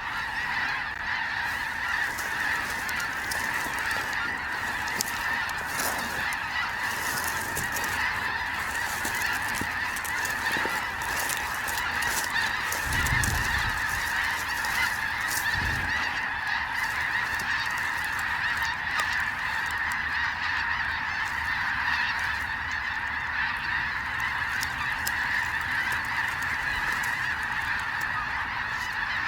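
A large flock of snow geese calling in a continuous, dense chorus of overlapping honks. A couple of brief low thumps come about 13 and 16 seconds in.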